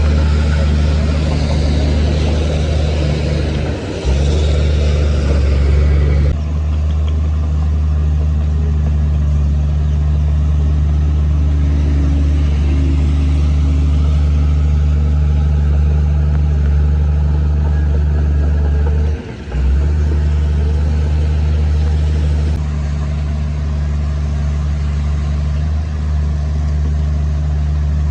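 Heavy diesel earthmoving machinery running steadily, a deep engine drone with a mix of noise above it. The drone briefly drops out about four seconds in and again about nineteen seconds in, and the noise on top changes abruptly twice.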